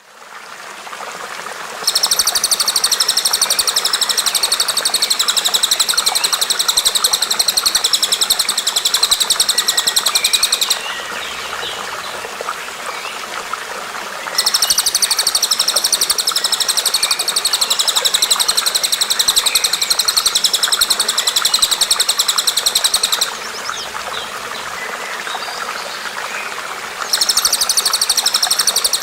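A songbird's rapid, high-pitched trill, held for about nine seconds at a time in three long bouts with short pauses between them, over a steady hiss. The calls are the kind of bird-song tutor recording used to teach a caged white-rumped shama new phrases.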